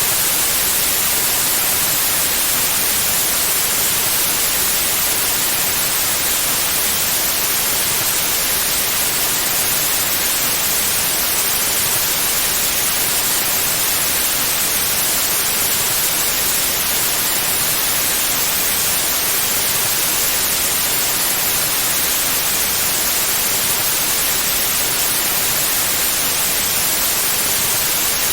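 Steady synthetic white noise: an even, unchanging hiss that is strongest in the high frequencies.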